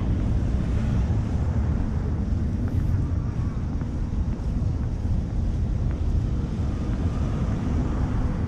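Wind buffeting the camera's microphone during a snowstorm: a steady, gusty low rumble.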